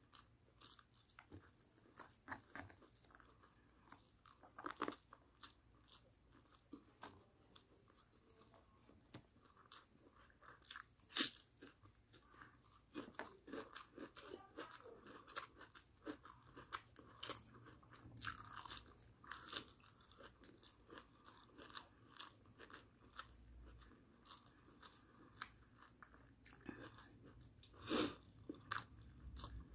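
A person eating barbecued chicken and rice by hand: chewing and biting, heard as a scatter of small crunchy clicks. There is a sharper crack about eleven seconds in and another near the end.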